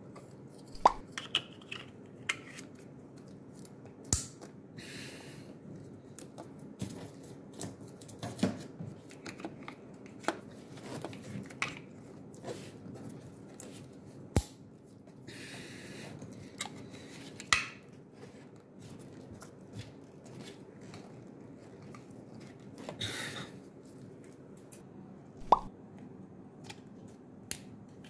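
Hands working on engine-bay parts: scattered sharp clicks and knocks of plastic connectors and hose fittings being pushed and snapped into place, with brief rustling of hoses and wiring between them. The loudest clicks come about a second in, midway and near the end.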